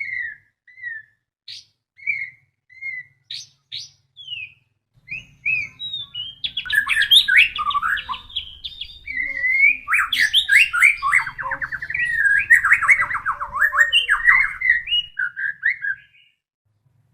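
White-rumped shama singing: a few scattered whistled notes at first, then from about five seconds in a fast, rich run of varied whistles and trills, which stops about a second before the end.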